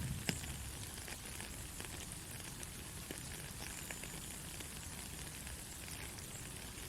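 Soft rain falling steadily, with individual drops ticking close by here and there; one sharper drip about a third of a second in.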